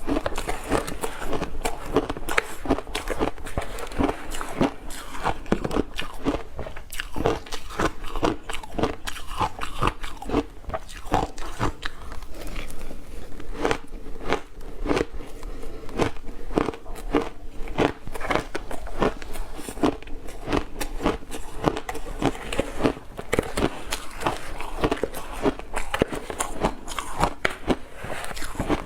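Close-up crunching of ice being bitten and chewed: a continuous, irregular run of sharp crunches, about two to three a second.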